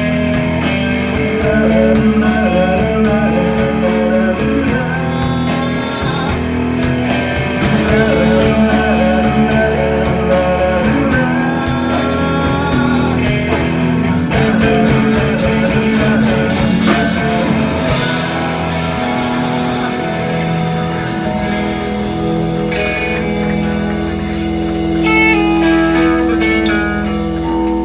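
Live rock band playing with electric guitars, bass, drums and singing. About two-thirds of the way through, the drums drop out and a held chord rings on, with a few high guitar notes near the end as the song closes.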